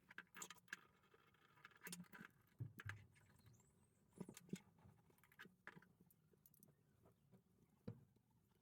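Faint, scattered clicks and light knocks of small parts and tools being handled during the angle grinder's restoration.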